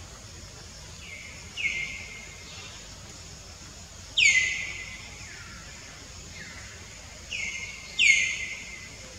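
A bird calling repeatedly over steady outdoor background noise. Each call is a short note that drops quickly in pitch and then levels off. The calls come every second or two, some loud and some faint, with the loudest about four seconds in and near the end.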